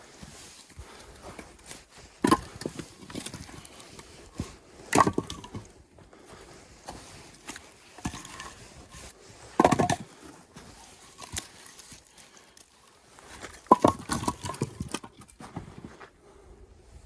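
Axe splitting firewood: four heavy strikes a few seconds apart, each followed by a short clatter of splitting and falling wood.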